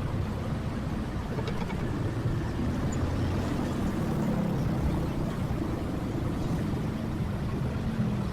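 Motorcycle engine running at low, fairly steady speed, heard from the rider's seat. Its hum shifts slightly in pitch, over a haze of road and traffic noise.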